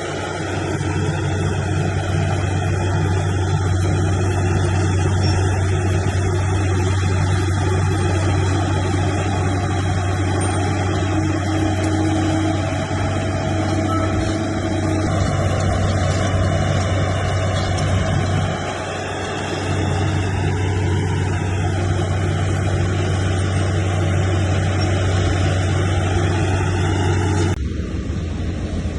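Heavy diesel engine of earthmoving machinery running steadily under load, with a deep, even hum. The level dips briefly about two-thirds of the way through, and the sound changes abruptly near the end.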